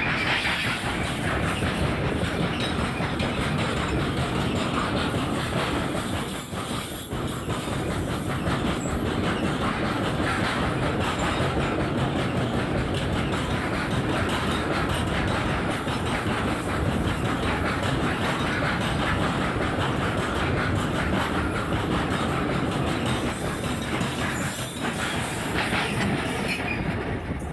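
Freight train wagons rolling past close by: a steady rumble with the wheels clacking over the rail joints. The noise starts to fall away near the end as the train's tail passes.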